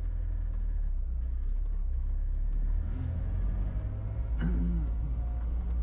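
Car driving slowly, heard from inside the cabin: a steady low rumble of engine and road.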